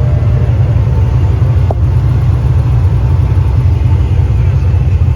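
Loud, steady low rumble of a car.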